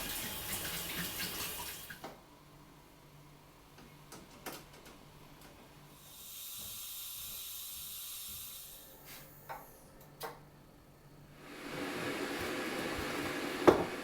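Water running from a tap in several separate bursts, with scattered clicks and knocks in the quieter gaps between them and one sharp knock near the end.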